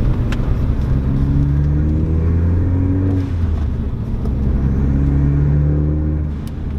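A 2017 Ford Focus ST's turbocharged 2.0-litre four-cylinder is heard from inside the cabin under acceleration, with the Sound Symposer removed so no intake sound is piped in. The engine note rises, drops sharply about three seconds in, rises again, and eases off near the end.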